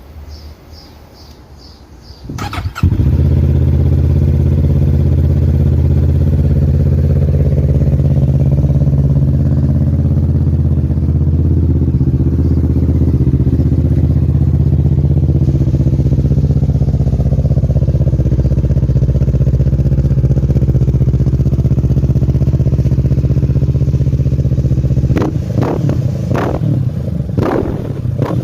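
Kawasaki Ninja 650 parallel-twin engine starting up about three seconds in, then idling steadily through the exhaust. Near the end the throttle is blipped several times in quick revs.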